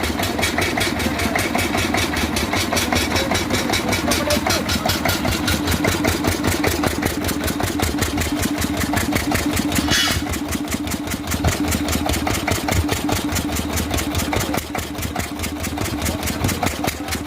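Old single-cylinder Lister engine running steadily, each firing stroke a regular beat. There is a short hiss about ten seconds in.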